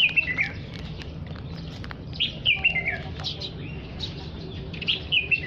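Flock of small birds chirping in three short bouts of quick calls, near the start, in the middle and near the end, with scattered faint clicks and a steady low rumble underneath.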